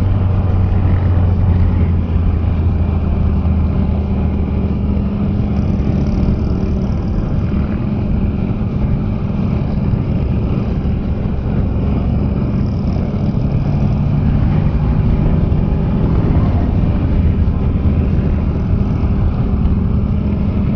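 Can-Am Spyder three-wheeled motorcycle's engine running steadily at low revs while riding, under a steady rush of road noise.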